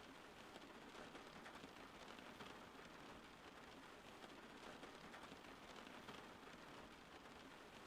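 Faint, steady rain: an even hiss of many small drops, with no thunder or single louder hits.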